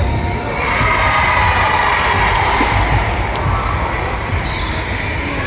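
Basketball game sounds: a ball bouncing on a court floor with repeated low thuds, over a steady din of crowd noise that swells for a few seconds.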